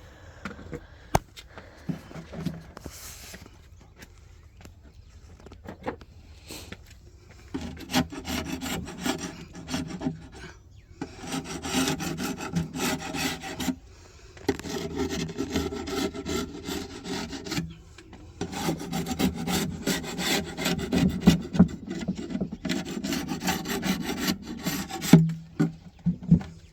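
Scraping and rubbing on wooden beehive parts during a hive inspection, in stretches of a few seconds with short pauses, after a few scattered clicks. A sharp knock comes near the end.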